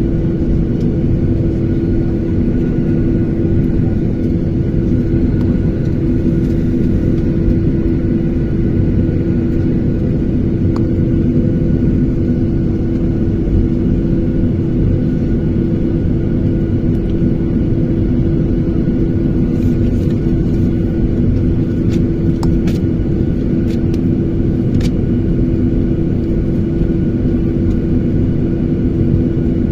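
Jet airliner's engines running with a steady rumble and a constant low hum, heard from inside the passenger cabin while the plane is on the ground before takeoff.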